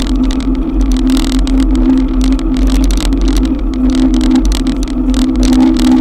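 Riding an e-bike in a downpour: rain tapping rapidly and irregularly on the action-camera housing, over low wind rumble and a steady hum.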